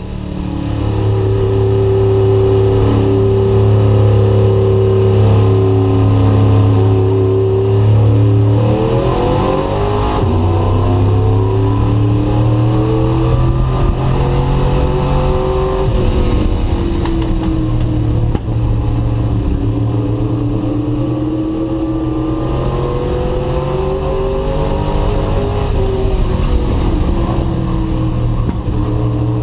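Race truck's engine heard from onboard. It holds a steady note for about eight seconds, then accelerates with a rising pitch. After that its pitch rises and falls again and again as the throttle opens and closes.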